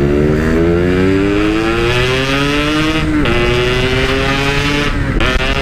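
Yamaha RX-King's 135 cc two-stroke single-cylinder engine accelerating hard under way, its pitch climbing steadily. The pitch drops suddenly about three seconds in and again near the end as it is shifted up through the gears.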